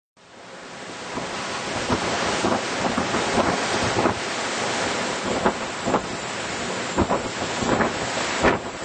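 Strong, gusty wind buffeting the microphone, with irregular sharp blasts every second or so, fading in over the first second.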